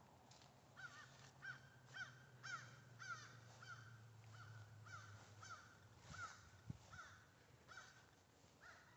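Faint, distant bird calls: a steady series of short calls, about two a second, beginning about a second in. A low steady hum sits under them and stops about halfway through.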